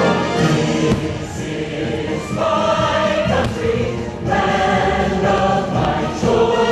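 A choir singing with orchestral music, in held notes and phrases, as part of a fireworks-show soundtrack played over loudspeakers.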